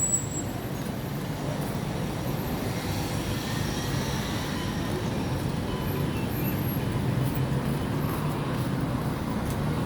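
Steady travel noise of a moving vehicle, heard from inside: an even low rumble with no distinct events.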